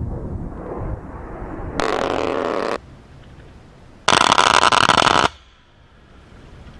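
A-10 Warthog's GAU-8 Avenger 30 mm rotary cannon firing two short bursts, each about a second long, the second louder, starting and stopping abruptly. A low jet rumble fills the first second.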